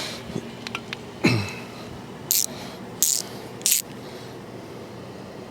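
Socket ratchet wrench working a bolt: a metal clank about a second in, then three short bursts of ratchet clicking.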